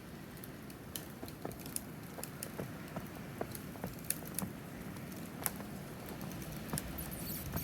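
Light, irregular crackling and small clicks in cold, dry snow over a low, steady wind rumble, growing a little louder near the end.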